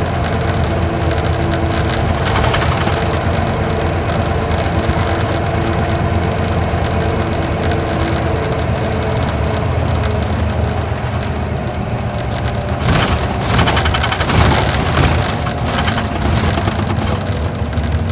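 Isuzu Gala coach's V-type diesel engine running underway, heard inside the cabin over a steady rumble of road and tyre noise and interior rattling. The engine's tone is clear at first and fades about halfway through, and a burst of sharp clattering comes about 13 seconds in.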